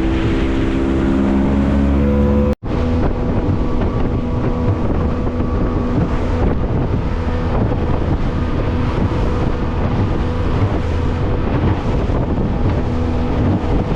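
Motorboat engine running under way, its pitch creeping up over the first couple of seconds, then holding steady, with wind buffeting the microphone. The sound drops out for an instant about two and a half seconds in.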